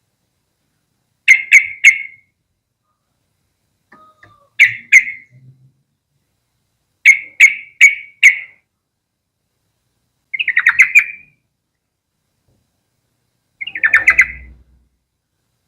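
Yellow-vented bulbul calling in short groups of sharp chirping notes every two to three seconds, with two quicker chattering runs in the second half.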